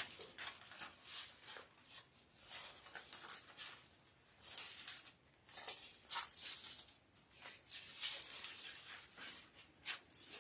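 Thin Bible pages being leafed through and turned: short, irregular paper rustles.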